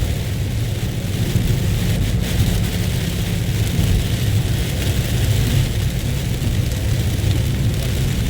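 Heavy downpour of rain falling steadily, with a constant deep rumble underneath.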